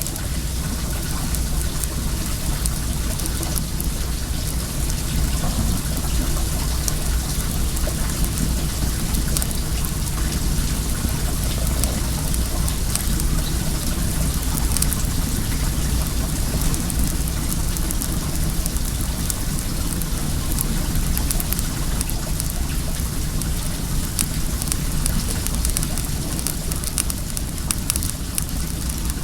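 Well water running and splashing steadily, with the light crackle of a wood bonfire over it.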